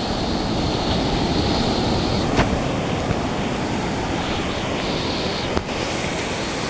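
Sea surf breaking on the shore: a steady rush of waves, with wind on the microphone.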